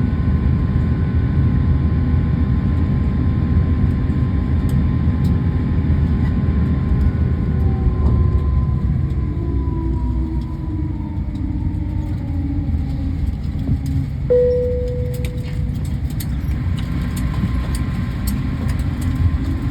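Airliner cabin noise while taxiing after landing: a steady low rumble of the jet engines and the rolling aircraft, with the engine whine falling in pitch partway through. A single cabin chime rings about fourteen seconds in.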